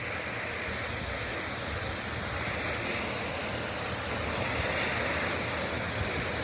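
Water from a sheared-off fire hydrant gushing out in a steady, continuous rush of spray.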